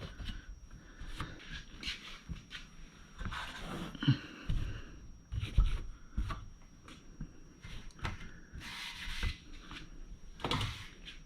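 A cloth rubbing and wiping over garage door hardware to take off excess lubricant: irregular rubbing and rustling with scattered light knocks and clicks.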